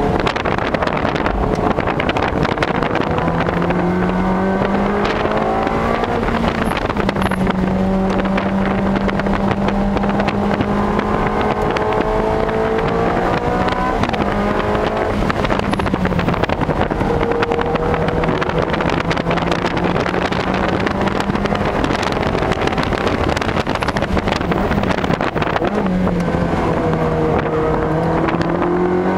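Ferrari 360 Challenge Stradale's V8 engine heard from inside the cabin under hard driving on track. Its pitch rises and drops several times as the car is worked through the corners, over a steady rush of wind and road noise.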